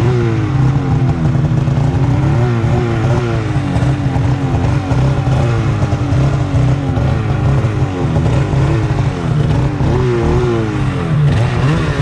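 Snowmobile engine running under way, loud and continuous, its pitch rising and falling over and over as the throttle is worked.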